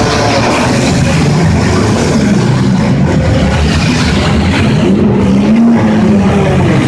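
Loud, dense racket of several demolition derby cars' engines revving at once, their pitches rising and falling against each other.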